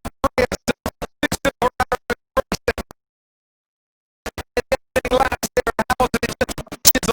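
Audio from a Formula One video clip breaking up into rapid choppy fragments, about five a second, with a complete dropout for about a second and a half near the middle. This is a shared stream stuttering on a failing internet connection.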